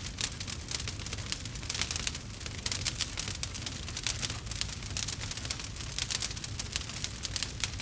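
Campfire crackling steadily: a dense run of small sharp pops and snaps over a low, even rumble.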